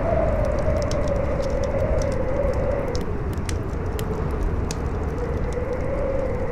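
Howling wind whose pitch slowly wavers up and down, over the scattered crackles and pops of a burning campfire and a low rumble.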